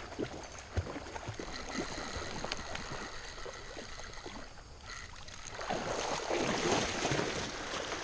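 Creek water splashing, loudest in a burst from a little past halfway to near the end, over a running stream, with scattered small clicks and knocks before it.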